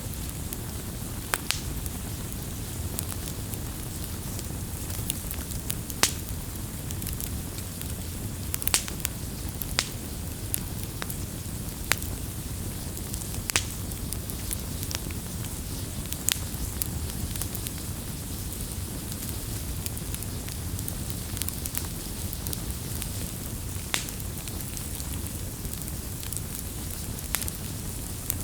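Wood campfire burning: a steady low rush of flames with irregular sharp crackles and pops scattered through, the loudest about six seconds in.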